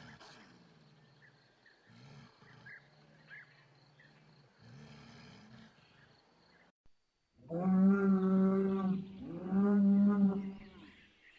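Animal calls: a few faint, low, drawn-out calls, then two loud, long, steady-pitched calls one after the other in the second half.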